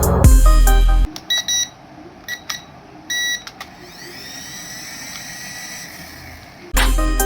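Electronic background music breaks off about a second in, leaving a faint steady whir from a small motor with a few short beeps and a whine that rises and then holds; the music comes back near the end.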